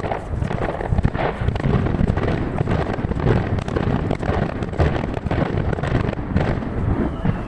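Aerial fireworks bursting in a dense, rapid string of overlapping booms and crackles, heard from a distance and played at three times normal speed.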